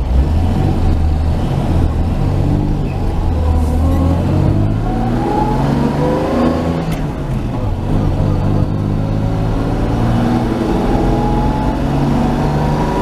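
1949 Chevy truck's engine pulling the truck up to speed, heard from inside the cab: its pitch rises twice, from about three seconds in and again from about nine seconds in. The engine is not yet fully warmed up.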